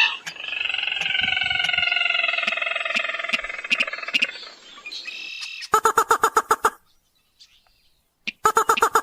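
Crake and rail calls from a bird-lure recording: one long, slowly falling call lasting about five seconds, then a fast run of sharp notes for about a second, a brief pause, and another fast run near the end.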